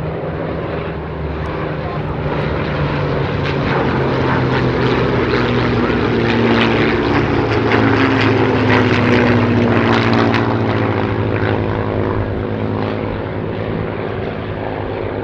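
Piston-engined WWII warbird flying past with a steady propeller drone. It swells to its loudest about eight to nine seconds in, then eases off.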